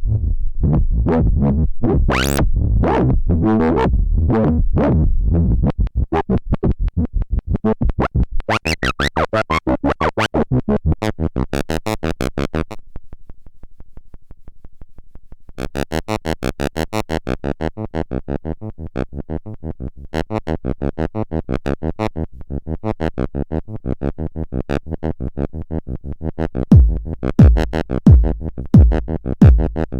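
Electronic synthesizer playing a fast, rapidly repeating pulsing pattern. The pattern thins out and drops in level for a couple of seconds midway, then comes back. Near the end, heavy bass hits about once a second come in.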